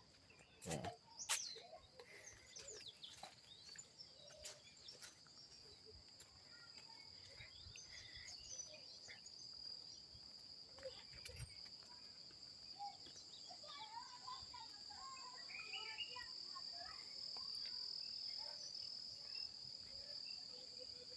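Evening insect chorus, crickets trilling steadily in a high, even band, with a few sharp knocks in the first couple of seconds and faint scattered distant sounds in the middle.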